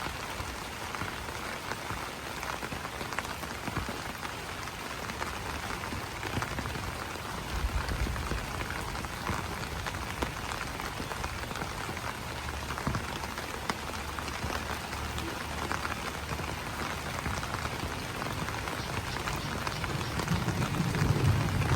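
Steady rain pattering on broad banana leaves, a dense haze of drops with many small individual ticks. A low rumble swells briefly about a third of the way in and again, louder, near the end.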